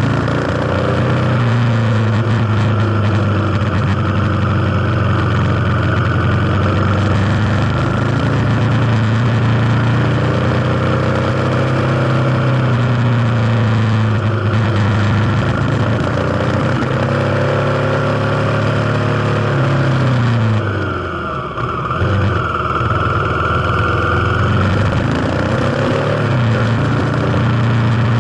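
Kawasaki KLX250's single-cylinder four-stroke engine running under way, its pitch rising and falling with the throttle. About three-quarters of the way through, the revs fall away sharply and then build again.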